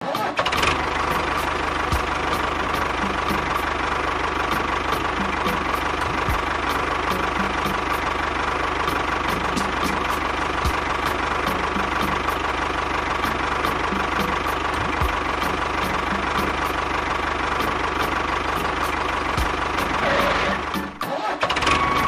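Engine running steadily, like a tractor engine at idle, with a brief dip about a second before the end.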